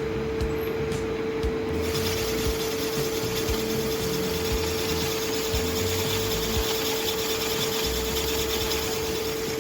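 Cylinder boring machine for motorcycle cylinders running with a steady whine while its cutter scrapes through the bore; a brighter scraping hiss sets in about two seconds in.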